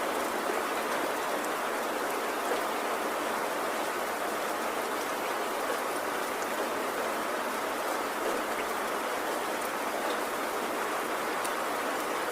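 Steady rainfall: an even, unbroken hiss of raindrops with no pauses or swells.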